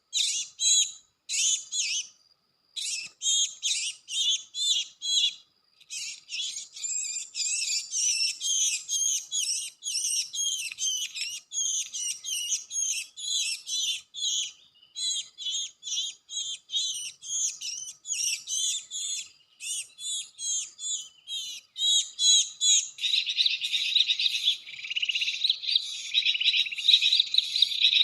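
Cinereous tit (gelatik batu) calls: a rapid, unbroken run of sharp, high chirps, several a second, with short gaps near the start. Near the end the calling turns denser and buzzier.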